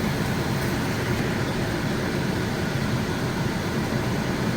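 Bacon frying in a pan: a steady sizzle.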